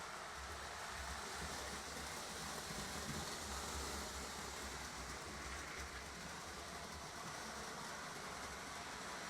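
Lionel O gauge model trains running on three-rail track, a steady rumble with the whir of their motors.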